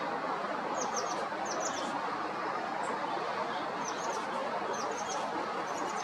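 A small songbird giving short, high chirps in quick pairs and triplets, five clusters spread across a few seconds, over a steady rushing background noise.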